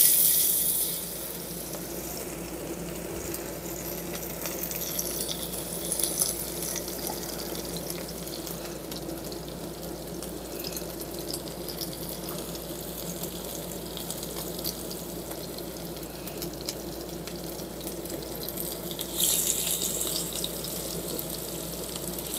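Chicken tenders sizzling in smoking-hot shallow oil in a cast iron skillet as they are laid in one by one with tongs. A loud surge of sizzle as a tender goes in at the start and another near the end, with a steady frying hiss between.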